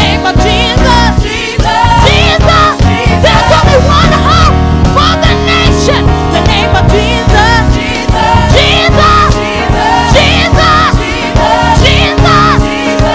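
Gospel praise and worship music: a choir singing with a full live band, with vibrato in the voices over held chords and a steady bass beat.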